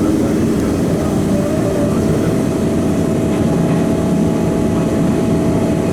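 Eizan Electric Railway train running along the Kurama Line, heard from inside the car: a steady rumble of wheels on the rails with an even, held electric-motor tone.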